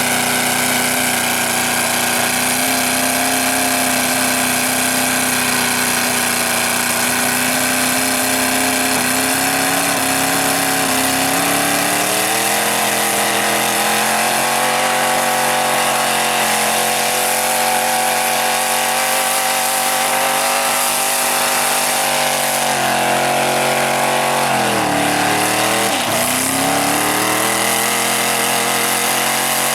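Big mud truck engine running hard and steady. Its revs step up about twelve seconds in, then drop sharply and climb back again near the end.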